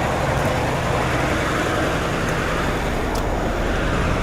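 Heavy truck engine running steadily, with a wash of road traffic noise.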